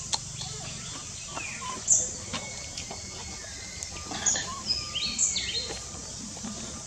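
Wild birds calling: scattered short, high chirps and whistles, some sliding down in pitch, a few about two seconds in and a busier run around four to five seconds in, over a steady low outdoor background noise.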